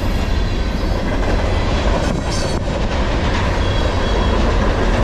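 Freight cars loaded with empty garbage containers rolling past on steel wheels and rails: a steady, loud rumble of a long manifest train going by close at hand.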